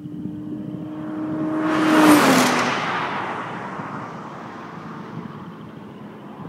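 Toyota Supra's naturally aspirated 2JZ-GE straight-six, through an aftermarket Fujitsubo exhaust, passing at speed. The engine note holds steady as the car approaches, is loudest about two seconds in with a drop in pitch as it goes by, then fades into the distance.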